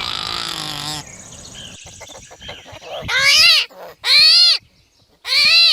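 Beaver whining calls: after a quieter scratchy stretch, three high whines come about a second apart, each rising and then falling in pitch.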